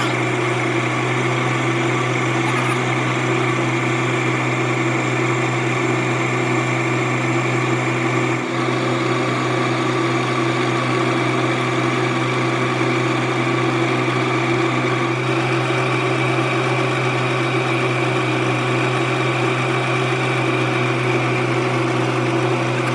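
Metal lathe running steadily: a constant machine hum with a steady higher whine over it.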